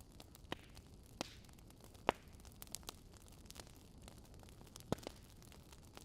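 Fire crackling: scattered sharp pops and snaps over a low, steady hiss. The loudest pop comes about two seconds in.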